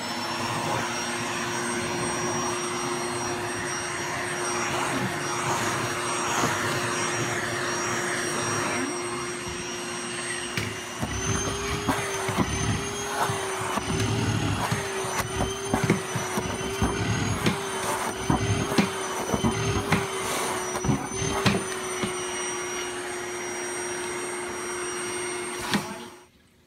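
Vacuum cleaner running steadily as it is used to groom a cat's fur. From about halfway the motor's pitch wavers up and down as the suction load changes, with repeated short bumps and rustles from the nozzle. Near the end it switches off.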